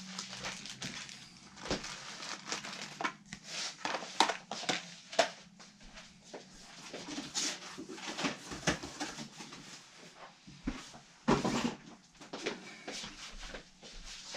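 Handling noise: irregular clicks, taps and rustling, with a longer, louder rustle about eleven seconds in.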